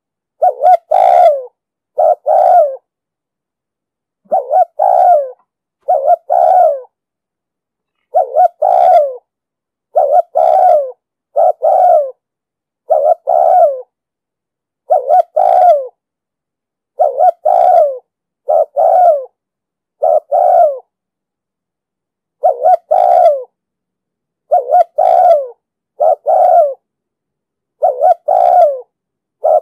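Spotted dove cooing: short, loud coo phrases, mostly in pairs, repeated every two seconds or so with dead silence between them. This is the insistent 'thúc gù' cooing of a male, played as a lure to draw wild doves.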